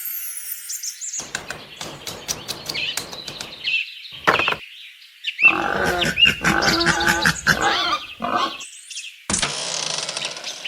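Animal sound effects: a run of short bird chirps and tweets, with a longer, denser animal call in the middle.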